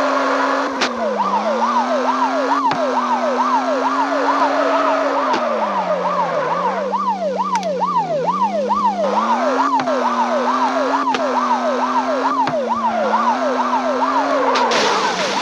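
Police car siren in a fast yelp, sweeping up and down about two to three times a second, starting about a second in, over a steady engine-like hum.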